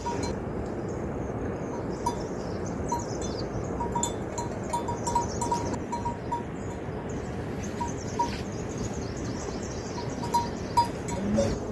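Small bells on grazing livestock clinking irregularly, a light ringing every half second or so, over a steady background hiss.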